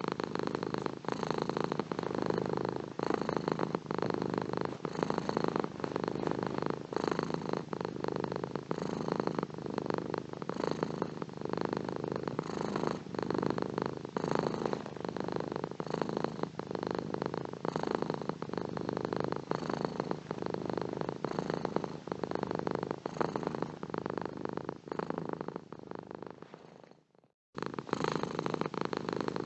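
Domestic cat purring steadily, a continuous fast pulsing rumble. Near the end the purr fades out and breaks off for a moment, then starts again.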